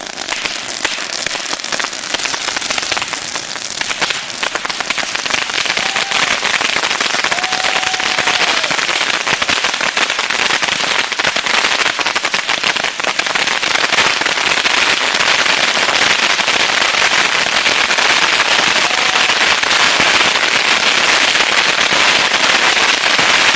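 About 8,500 bottle rockets going off together from a homemade launcher: a dense, unbroken crackle of pops and launches that grows louder, with a few short whistles.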